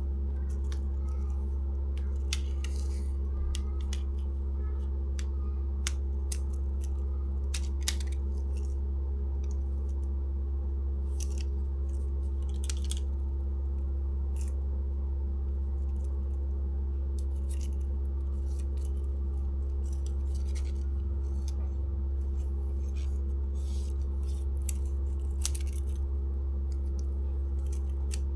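Scattered small clicks and snips of fishing tackle being handled, with a steady low hum underneath.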